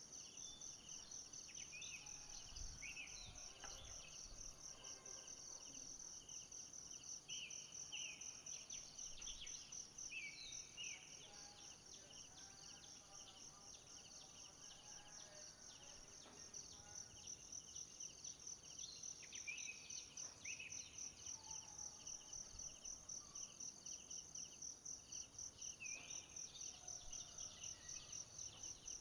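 Faint insect chorus trilling in a fast, even pulse, with scattered short bird chirps.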